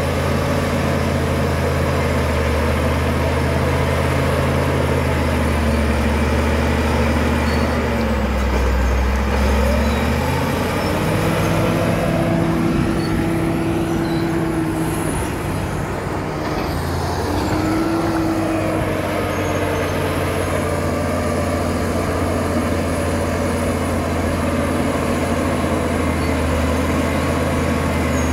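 Caterpillar D7 bulldozer's diesel engine running steadily. Its note dips and shifts about ten seconds in, then settles back about seventeen seconds in.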